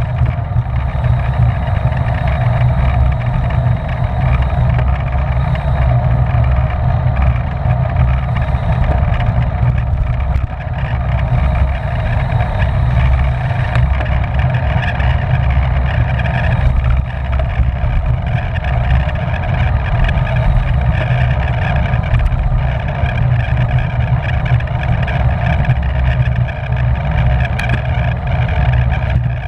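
Steady wind rush and rumble on a racing cyclist's camera microphone at race speed, with no breaks.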